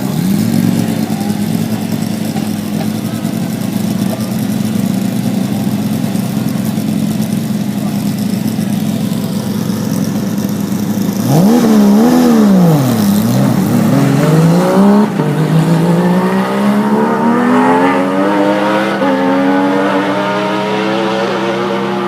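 A high-performance sports car's engine running at steady revs. About eleven seconds in it gets louder and is revved up and down in quick swoops, then climbs steadily in pitch as it accelerates.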